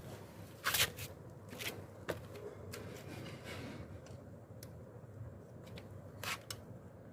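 Scattered sharp clicks and two brief scraping rustles, the louder near the start and another near the end, over a faint low rumble; no engine is running.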